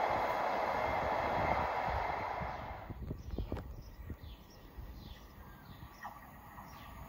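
Train running past on the rails, a steady rushing noise that drops away suddenly about three seconds in. Birds chirp in the quieter stretch that follows.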